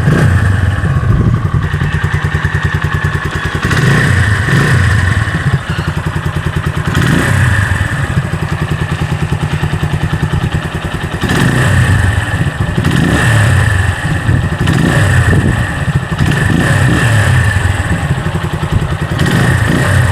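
Keeway Cafe Racer 152's carbureted single-cylinder four-stroke engine running at idle, revved up in short throttle blips several times and dropping back to idle between them.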